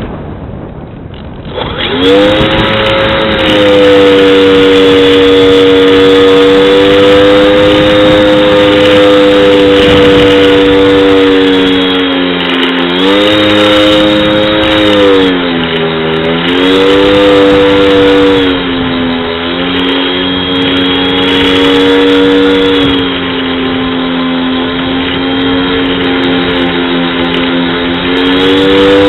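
Brushless electric motor and propeller of an RC foam plane running hard, heard from the onboard wing camera: a steady high-pitched whine that comes in with a rising pitch about two seconds in, after a moment of wind noise. The pitch dips and recovers a few times as the throttle is eased and opened again.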